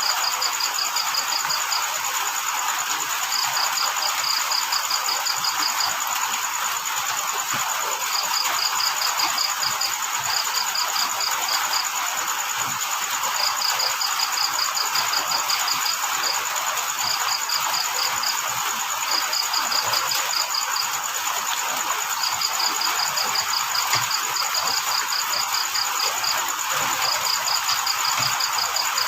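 Crickets chirping in rapid trains, each a second or two long with short pauses between, over a steady high insect trill and the even hiss of falling rain.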